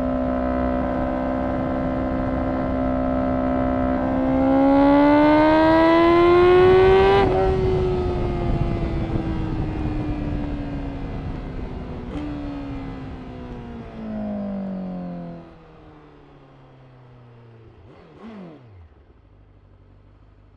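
Honda CBR1000RR-R SP Fireblade's inline-four running through an Akrapovič exhaust. It holds a steady note, the revs climb for about three seconds, then the pitch sinks and the sound fades. Near the end there is a brief rising-and-falling whine.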